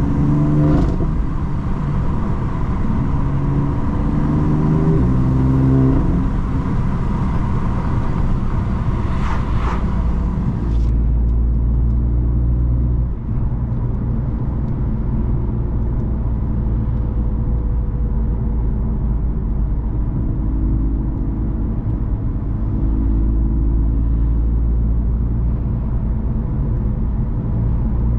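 BMW M3 F80's S55 twin-turbo straight-six with an M Performance exhaust, pulling up through the gears in the first few seconds, then running at steady revs on the move, with a mild pull again later. A high hiss over it cuts off suddenly about eleven seconds in.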